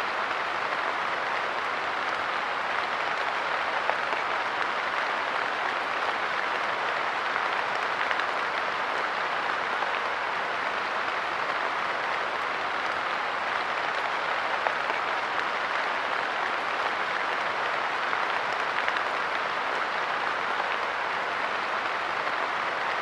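Steady light rain pattering on a wooden park bench, with a few sharper drop ticks standing out now and then.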